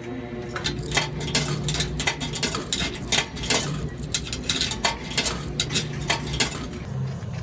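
A rapid, irregular series of clicks, clinks and knocks over a steady low hum.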